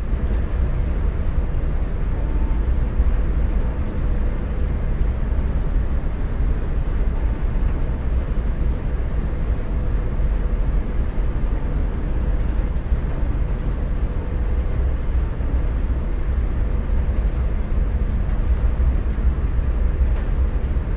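A motorboat under way: a steady, loud, deep rumble, with a faint steady engine tone over it.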